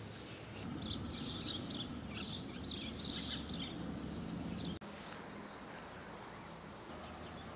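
Birds chirping in quick clusters of high calls over a low background rumble, cutting off abruptly about five seconds in and leaving only a faint, steady outdoor hiss.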